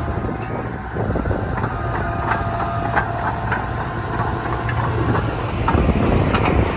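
Heavy diesel earthmoving machinery running steadily, with scattered metallic clanks and clicks over the engine's low hum.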